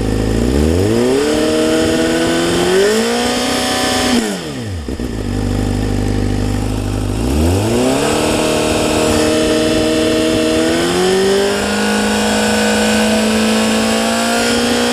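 2013 Honda CBR600F's inline-four engine, breathing through a Scorpion Serket silencer on a Black Widow header, revved twice from idle while stationary. The first rev is held a couple of seconds and drops back to idle; the second rises about halfway through and is held steady, climbing a step further near the end.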